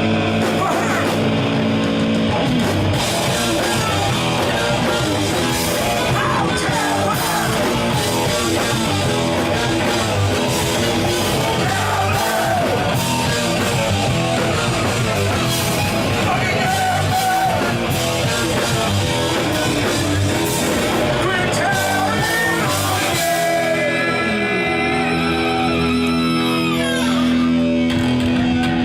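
Live punk rock band playing: loud guitars, bass and drums with shouted vocals. Near the end the guitar slides down in pitch and then holds a sustained low note.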